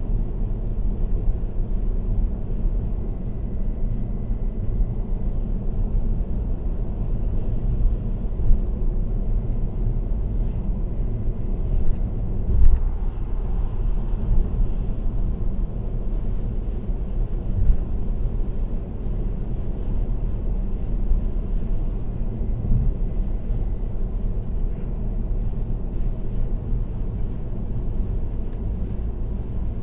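Steady low rumble of tyre and road noise from a car driving at expressway speed, heard from inside the car, with a few brief thumps along the way.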